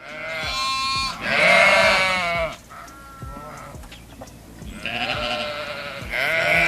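Sheep bleating: several wavering, quavering bleats about a second long each, one after another with short pauses.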